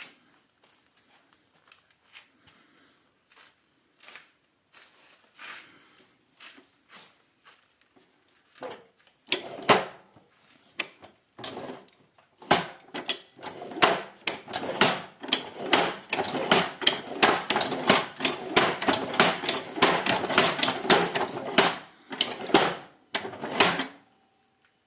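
Hydraulic motor and clutch mechanism clattering: faint scattered clicks at first, then a loud, rapid run of sharp knocks, about four a second, from about nine seconds in. A thin steady high whine runs under the knocks, and it all stops shortly before the end.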